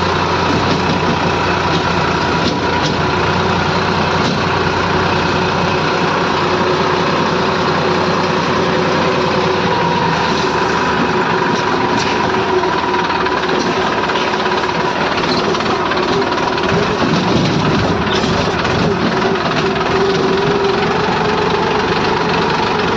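The engine of a piece of construction machinery running steadily, with a steady whine on top and a few faint clicks.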